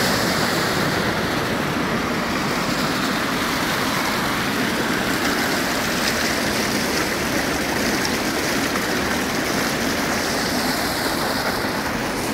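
Steady rush of floodwater: a continuous, even noise that holds level throughout.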